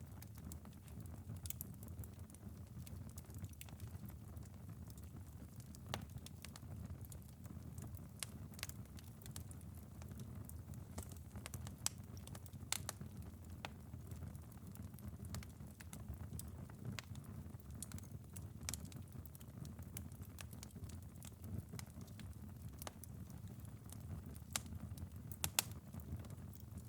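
Wood fire crackling, with frequent sharp pops and snaps scattered irregularly over a steady low rumble, and rain pattering softly.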